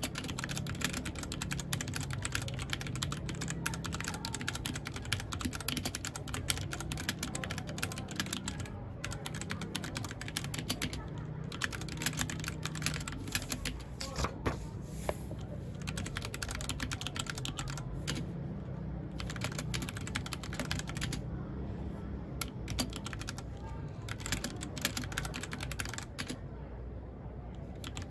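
Mechanical keyboard typing: quick, steady runs of key clicks with a few brief pauses.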